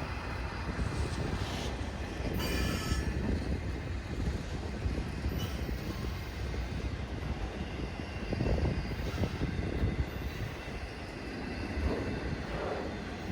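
Freight train's cars rolling past on the rails in a steady rumble, with a brief high wheel squeal about two and a half seconds in and fainter squeals later.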